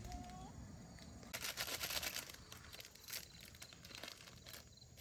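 Plastic food packet crinkling and being torn open by hand: a second-long burst of crackling about a second and a half in, then a few separate crinkles.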